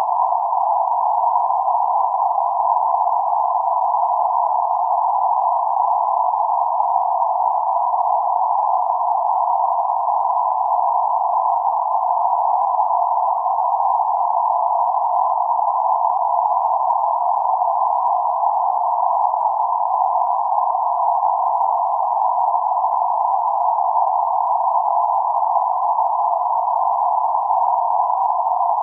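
Steady band-limited noise centred around 848 Hz, a narrow hiss sitting between about 600 Hz and 1.3 kHz with nothing above or below it, unchanging in level.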